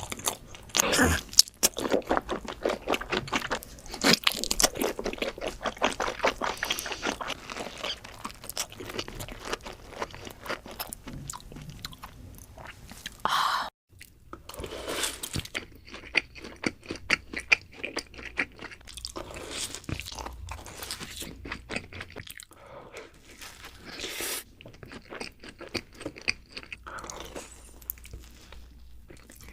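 Close-miked mukbang eating: crunchy food being bitten and chewed in rapid, crackling crunches. There is a brief break about halfway through, then the crunching resumes a little more sparsely.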